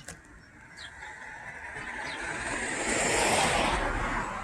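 A vehicle passing by on the road: a broad rush of engine and tyre noise that swells to a peak about three seconds in, then fades.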